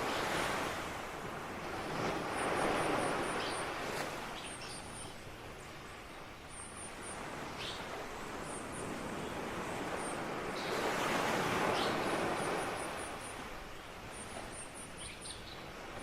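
Ocean surf washing ashore, the noise of the waves swelling and fading in slow surges, with a small bird chirping high in quick runs of four to six notes over it again and again.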